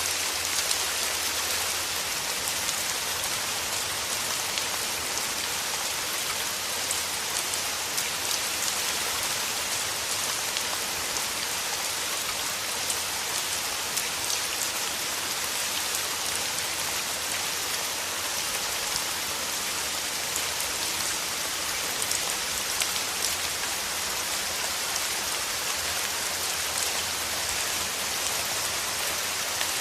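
Steady rain falling through forest trees: a dense, even hiss with scattered louder drops standing out here and there.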